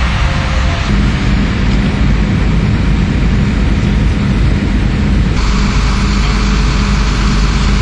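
Steady vehicle engine and road noise, a low running rumble under a hiss. The noise shifts abruptly twice, about a second in and a little past five seconds.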